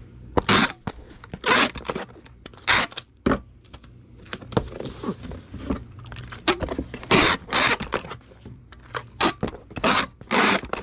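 Packing a cardboard shipping box with packing peanuts: irregular short scrapes and rustles as the box and its contents are handled and closed up.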